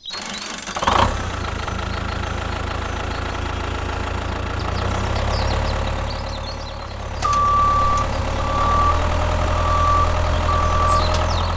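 Heavy vehicle's diesel-type engine coming on with a burst about a second in, then idling steadily. From about seven seconds in, a reversing alarm beeps four times at one pitch over the engine.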